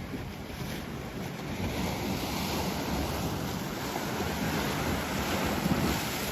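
Ocean surf breaking on the beach: a wave's rushing noise swells over a few seconds, peaks just before the end, then falls away.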